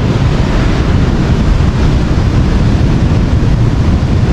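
Wind buffeting the microphone in a steady, loud low rumble, mixed with the wash of sea surf.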